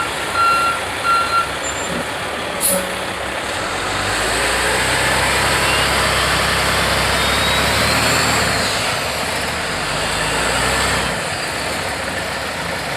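A heavy 8x8 truck's reversing alarm beeping, stopping about a second and a half in, then a short hiss of air. From about four seconds its diesel engine revs up under load for some seven seconds, with a rising whine, then eases back off.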